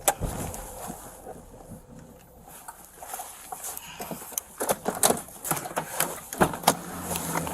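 Irregular knocks and rustling from a body-worn camera jostling on a walking officer, with footsteps, thickening from about three seconds in.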